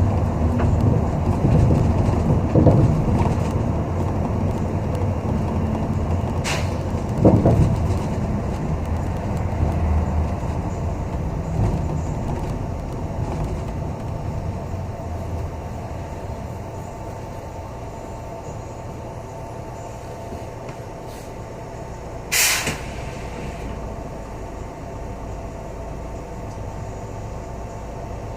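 City bus interior as it rides: steady low engine and road rumble that slowly eases off, with a couple of knocks from the cabin in the first seconds. About 22 seconds in there is one short burst of air-brake hiss.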